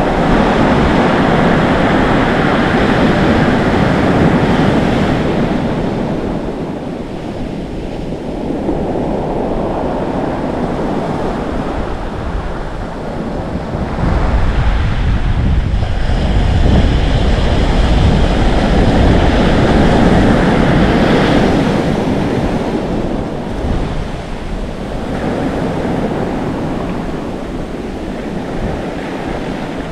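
Atlantic Ocean surf: waves breaking and foaming up the shore in slow swells, with two long surges, one at the start and a louder one with deep rumble from about 14 to 22 seconds in. Wind buffets the microphone throughout.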